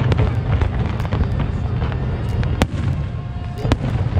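Fireworks display going off: a continuous low rumble of bursting shells with many sharp cracks and pops throughout, the loudest crack about two and a half seconds in.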